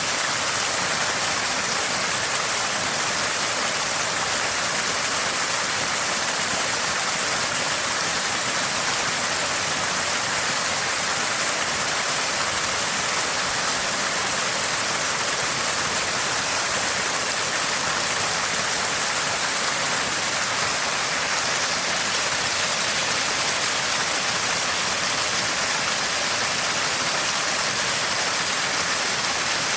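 Small spring of water gushing and gurgling steadily, a constant rushing splash with no breaks.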